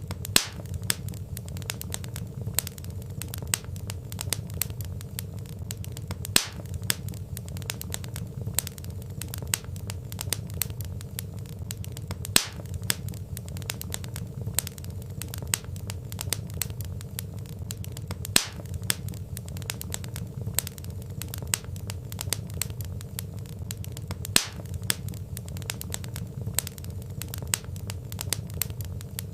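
Wood fire crackling: a dense run of small crackles over a low steady rumble, with a louder sharp pop about every six seconds.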